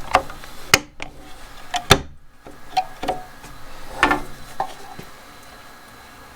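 Handling clicks and knocks from the opened spool head of a string trimmer: about seven sharp taps in the first five seconds as its cap and parts are handled, then quiet room noise.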